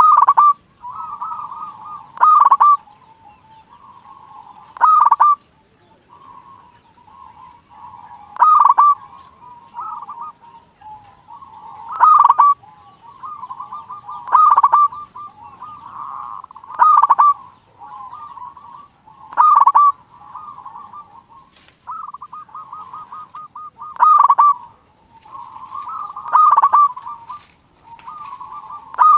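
Zebra dove (perkutut) singing: loud, ringing coo notes about every two to three seconds, with softer rolling, trilled coos running between them.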